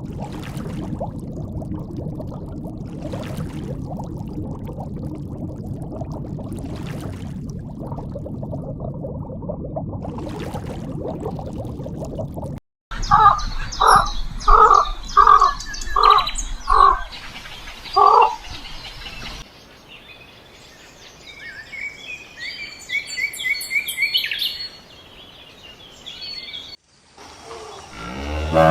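A run of different animal sounds. First comes a steady low rumbling noise for about twelve seconds. After a brief gap there are about seven loud, evenly spaced calls, then quieter high bird chirps and trills near the end.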